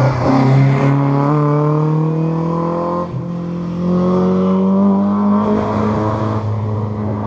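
Rally car engine accelerating hard, its pitch climbing steadily, dropping briefly at a gear change about three seconds in, then climbing again through the next gear.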